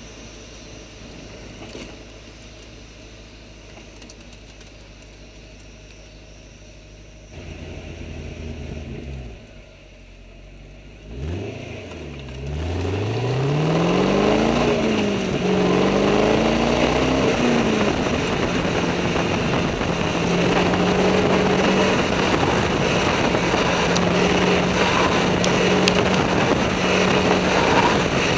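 2006 Pontiac GTO's 6.0-litre V8 and exhaust heard from beneath the car over road and wind noise. About eleven seconds in the engine revs up hard, rising in pitch twice with a drop between as it shifts up. It then holds a steady note at speed and starts to ease off at the very end.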